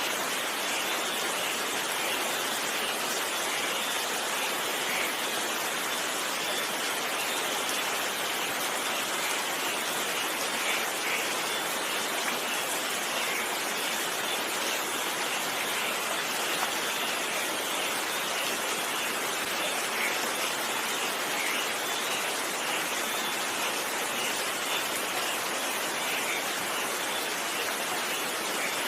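Steady rainfall: an even hiss of rain with scattered sharper drop sounds.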